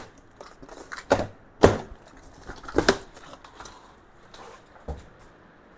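Scattered sharp knocks and clunks of boxed tool-cabinet parts and cardboard packaging being handled and set down, about five hits with the loudest about a second and a half in.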